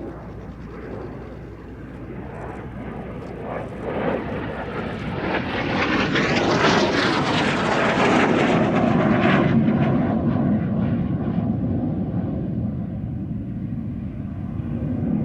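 F-86 Sabre jet and DH.88 Comet racer flying past together in formation: the engine noise swells to a loud peak about halfway through, then fades as they pass, its pitch dropping.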